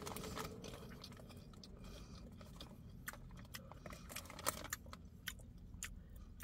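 A person chewing a mouthful of popcorn, faint with soft scattered crunches.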